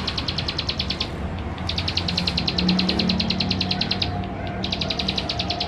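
Male plain prinia singing: a rapid trill of evenly repeated high notes, given in three bouts with short pauses between them.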